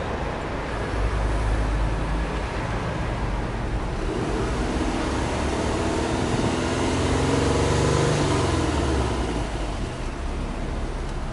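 Subaru Impreza Sports Wagon WRX's turbocharged flat-four engine heard at the tailpipe, idling and then revved once slowly, its note rising for a few seconds and falling back to idle.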